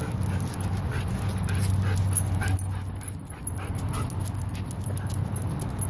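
A dog whimpering in short, faint high notes over a steady low hum and light clicking.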